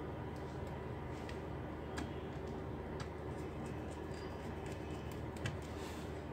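Scattered light clicks and taps, as from small laptop parts and tools being handled, over a steady low hum.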